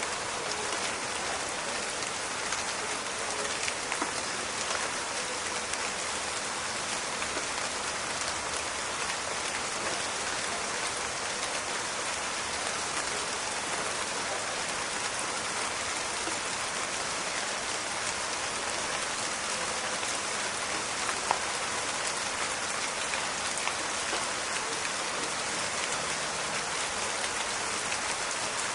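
Steady rain falling in a forest, an even patter of drops with scattered sharper drip ticks and one louder click about 21 seconds in.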